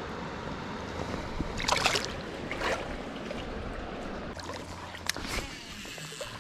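Creek water running steadily, with a few short sharp noises about two seconds in and again around five seconds.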